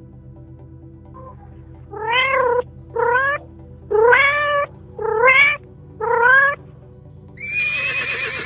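An animal calling five times in short, pitched calls that rise and then dip slightly, each about half a second long, followed near the end by a harsher, noisier call.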